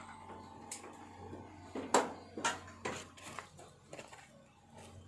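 A handful of sharp metallic clinks and knocks, like tools or metal parts being handled, with the loudest about two seconds in and several more close after it, over a faint steady hum.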